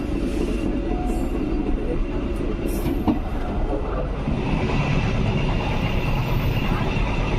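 Passenger train running along the track: a steady rumble and rattle of the carriages, with a faint high whine coming in about four and a half seconds in.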